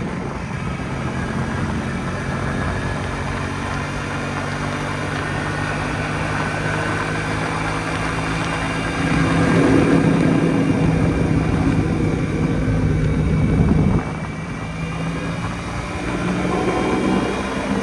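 Jawa 250 type 559 motorcycle's single-cylinder two-stroke engine running steadily, getting louder for about five seconds in the middle as it is given more throttle, then dropping back suddenly, and rising again near the end.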